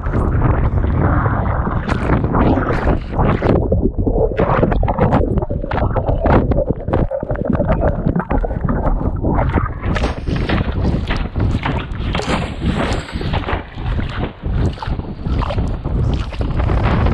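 Strong wind buffeting the microphone, a constant low rumble, with irregular splashes and spatters of water over it.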